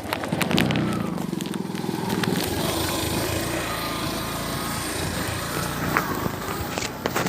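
A vehicle engine running steadily with a low, even pulsing, a few light clicks and knocks on top.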